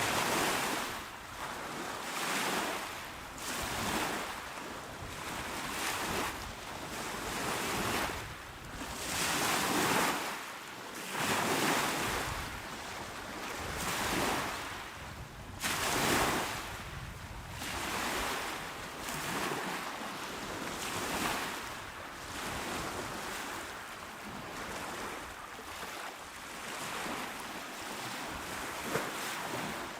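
Small, calm sea waves washing onto the shore, a steady wash of surf that swells and fades every second or two.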